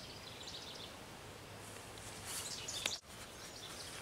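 Faint outdoor ambience with small birds chirping now and then. Just before the three-second mark a short rustle ends in a click, and the sound drops out for an instant.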